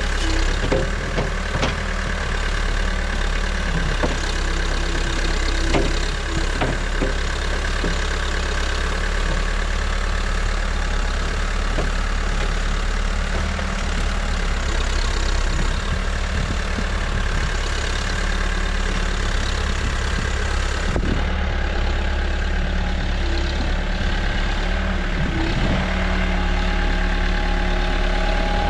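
New Holland backhoe loader's diesel engine running steadily at idle, with a few light clicks in the first several seconds.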